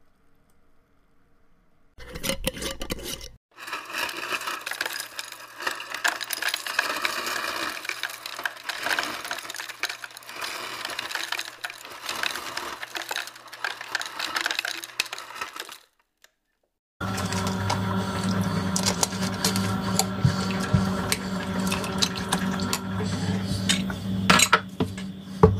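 Kitchen handling sounds: light clattering and clicking for about twelve seconds, then, after a brief gap, a steady humming appliance with clicks and knocks over it.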